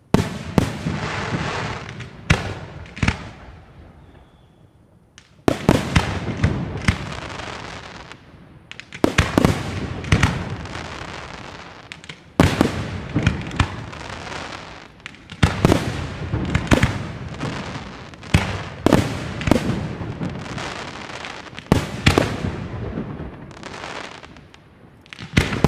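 Professional fireworks display: aerial shells bursting in sharp bangs, often several in quick succession, each trailing off over a second or two. There is a brief lull about five seconds in before the bursts resume.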